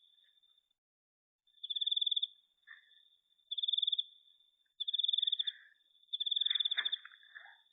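A night insect trilling: four high, rapidly pulsed trills a little over a second apart, with a fainter steady trill at the same pitch between them. A brief, faint scratchy rustle near the end.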